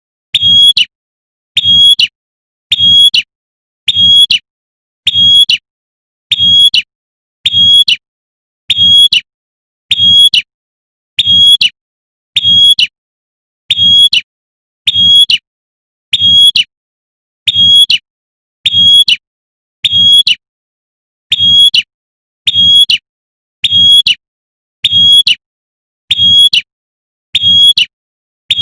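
Female prinia (prenjak) giving its sharp 'tembakan' call to summon a male, repeated at an even pace of about once a second, each call the same, with a low thump under each one.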